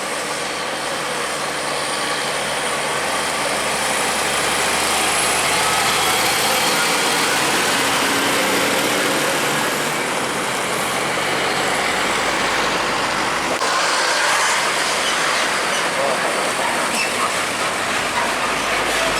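Heavy trucks passing close on a highway: steady engine and tyre noise that grows louder over the first few seconds. A thin high whine rises and then fades out about ten seconds in.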